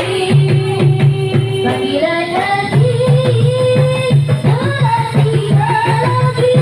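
Marawis ensemble playing: hand drums and frame drums beat a fast, dense rhythm with a deep repeating bass-drum pulse under a sung melody of long, wavering held notes.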